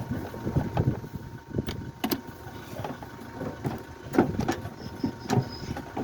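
Irregular clicks and knocks of hands working on a car's headlight assembly and its wiring and connectors, with a sharper knock about four seconds in, over a steady background hum.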